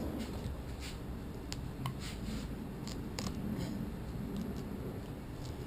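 Hands pressing and smoothing new fabric onto a glued car headliner board: a scratchy rubbing with a few light clicks.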